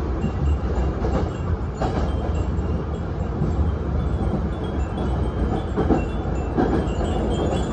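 Nose Electric Railway 7200 series electric train running with a steady low rumble and a few knocks of the wheels on the rails, while the wind chimes (fūrin) hung in the car tinkle faintly.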